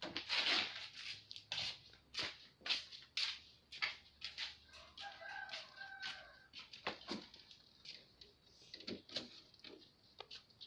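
A rooster crows once, about five seconds in, among repeated rustling and knocking sounds.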